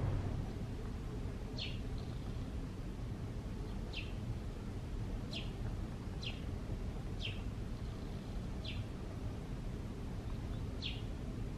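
A bird calling outdoors, repeating a short falling chirp seven times, one to two seconds apart, over a steady low background rumble.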